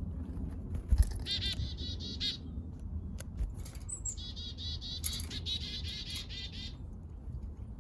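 Small backyard songbirds chirping: a quick run of high, repeated notes about a second in, then a longer rapid chatter of high notes through the middle, with a few sharp ticks between and a steady low rumble beneath.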